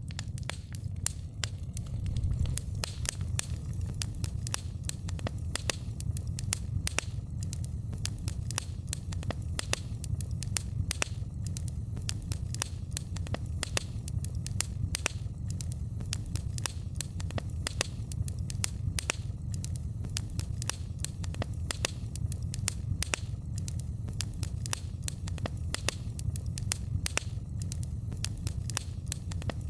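Wood fire in a fireplace crackling, with many sharp, irregular pops and snaps over a steady low rumble of the burning fire.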